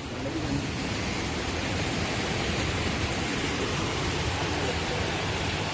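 Steady rush of fast-moving water, an even roar with no change.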